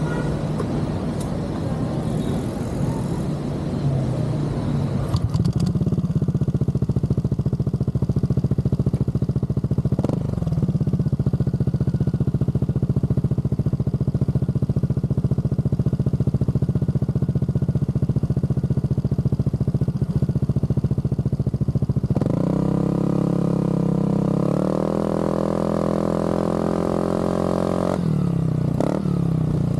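Aprilia SR GT scooter's single-cylinder engine running through an aftermarket Zard exhaust. It idles steadily, then is revved up in two steps and held for several seconds before dropping back to idle near the end.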